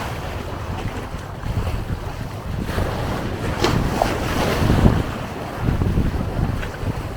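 Wind buffeting the microphone, with sea waves washing on the shore.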